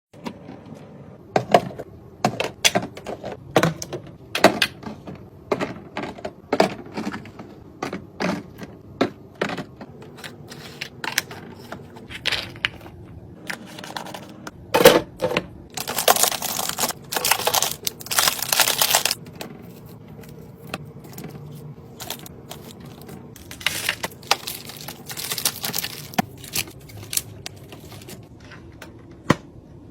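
Snacks and containers being handled and set into a mini fridge: irregular clicks, taps and knocks. There are stretches of rustling about halfway through and again later.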